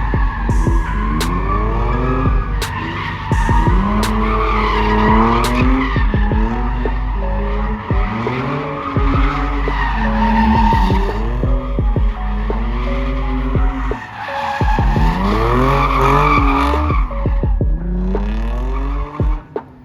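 A car doing donuts or a burnout: its engine revs up and down again and again, every second or two, over screeching tyres. The sound dies down near the end.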